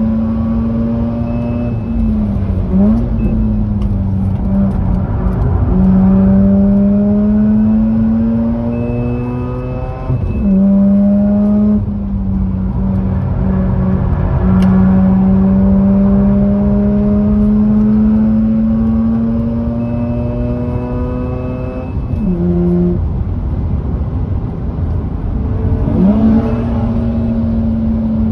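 Mazda RX-8's twin-rotor rotary engine held at high revs, with its note climbing slowly and then dropping briefly about six times, as at gear changes or lifts through corners. It runs through an aftermarket cat-back exhaust.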